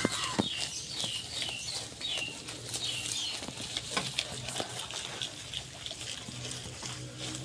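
Small birds chirping: a run of short, high, falling notes through the first half, mixed with scattered sharp clicks and knocks.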